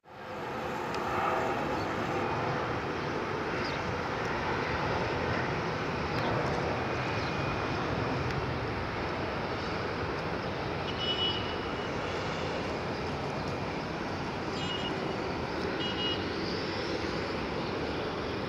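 Airbus A319-133 jet engines (IAE V2500) running at takeoff power, a steady even rush with no clear pitch.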